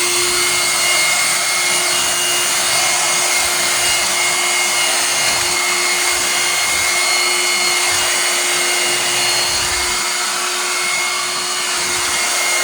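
Bissell 3-way lightweight vacuum cleaner (model 3106) running steadily: an even motor whine over a rush of air.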